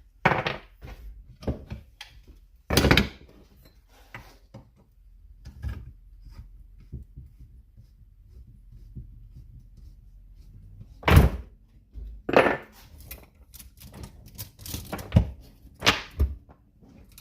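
Knocks and clacks of a chainsaw's bar and chain being handled, taken off and refitted by hand, with small metal clicks between them. They come at irregular moments, with a quieter spell in the middle.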